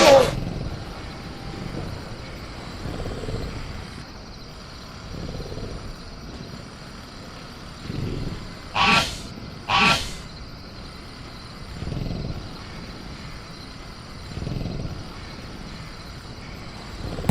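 Sound-designed velociraptor creature effects: a short shriek falling steeply in pitch at the start, and two more about a second apart near the middle. Between them come soft low growls or breaths every couple of seconds, over a steady high hum of crickets.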